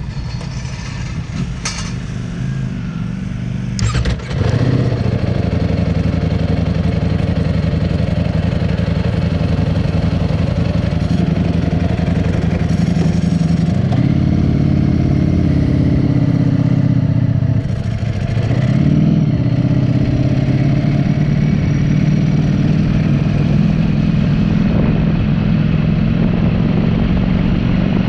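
Motorcycle engine running at a steady moderate speed. It gets louder about four seconds in, and dips briefly and picks up again around eighteen seconds.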